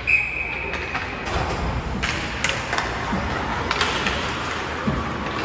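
A referee's whistle blown once, a single steady shrill tone of about a second. After it come scattered sharp knocks, several seconds apart, from play on the ice.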